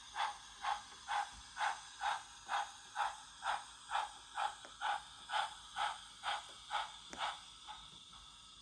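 Ellis Clarke Black 5 model steam locomotive chuffing in a steady rhythm of about two beats a second, fading out about seven seconds in.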